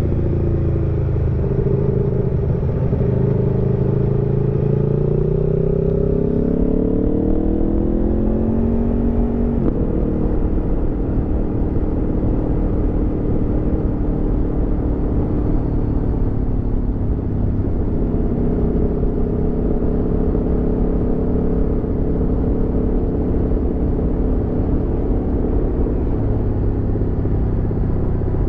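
Aprilia Tuono V4 motorcycle's V4 engine under way: the revs dip briefly, then climb steadily for several seconds as it accelerates. The note changes abruptly about nine to ten seconds in, then holds a fairly steady pitch as the bike cruises, over a constant low rush of road and wind noise.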